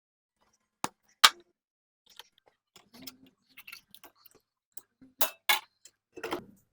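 Sharp clicks and knocks of hand tools at work on a mower's corroded battery cables: a loud knock about a second in, scattered light ticks, then several louder clanks near the end.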